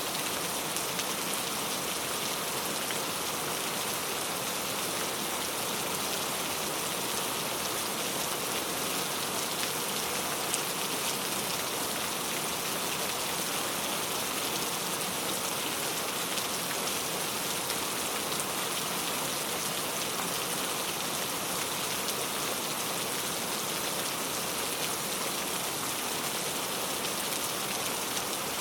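Steady rain falling on a surface, a dense even hiss with fine patter of drops and no thunder.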